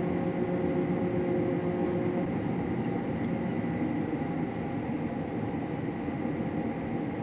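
Combine harvester running steadily, a constant machine hum with a thin high whine over it; one of its lower tones drops away about two seconds in.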